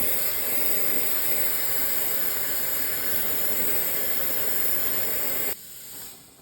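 Steady, loud hiss of gas rushing from a nozzle or line during work on an air-conditioning refrigerant circuit. It starts abruptly and cuts off sharply about five and a half seconds in.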